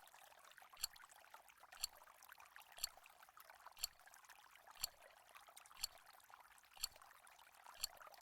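Quiz countdown timer ticking: a short, sharp clock-tick sound effect once a second, eight ticks, over a faint hiss.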